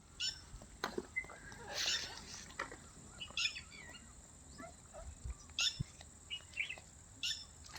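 A bird chirping: a bright, high call about every one and a half to two seconds, with softer short chirps in between.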